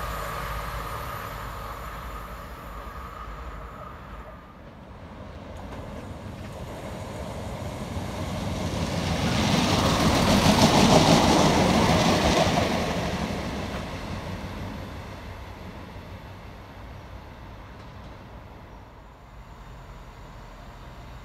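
CrossCountry Class 170 Turbostar diesel multiple unit passing at speed: its engine and wheel rumble build, peak about halfway through and fade away. Before that, the fading sound of an earlier train with a few steady tones dies out about four seconds in.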